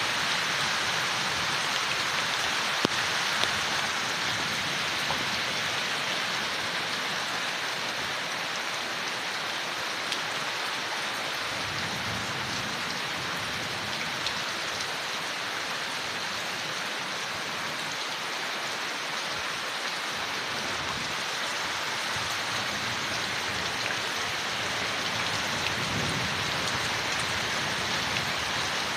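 Steady rain falling on leaves, an even hiss with an occasional sharper drip. A faint low rumble swells briefly around the middle and again near the end.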